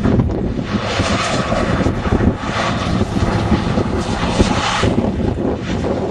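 Jeep engine held under steady throttle as it drives in snow, with a hissing rush from about one to five seconds in.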